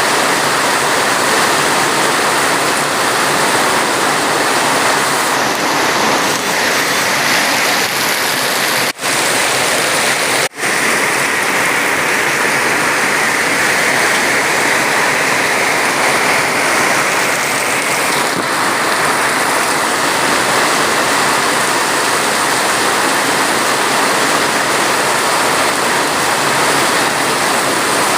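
Steady, heavy rainfall, a dense even hiss of falling rain with no single drops standing out. It breaks off for a split second twice, about nine and ten and a half seconds in.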